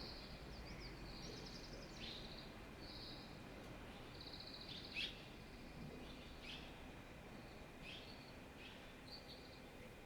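Small birds calling: repeated short high trills and chirps, some with quick falling sweeps, every second or so over faint background hiss.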